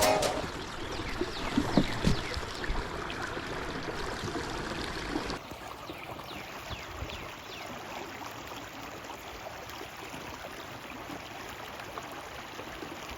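Creek water running and trickling, with a few light knocks in the first two seconds; the water sound drops to a quieter level about five seconds in.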